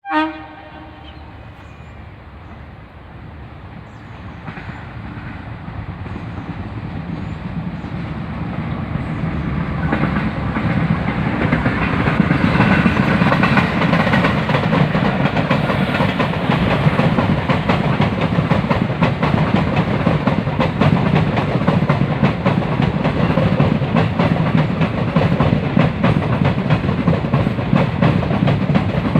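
Passenger train hauled by a WAP4 electric locomotive approaching and running past, its rumble growing louder over the first dozen seconds and then staying loud and steady. Wheels clickety-clack over the rail joints, and a brief pitched note sounds at the very start.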